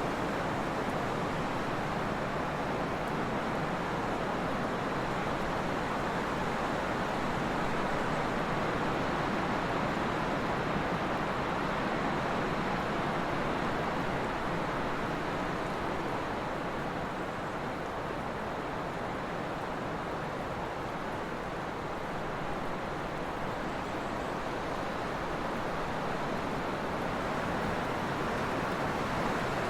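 Steady trade wind blowing: an even rushing noise that eases slightly past the middle and builds again near the end.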